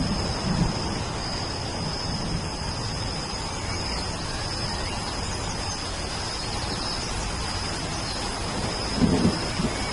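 Steady rain falling, with a continuous high insect note over it and low rolls of thunder about half a second in and again near the end.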